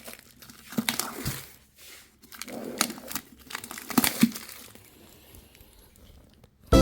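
Irregular rustling and crinkling with a few short sharp clicks and scrapes, dying away about five seconds in.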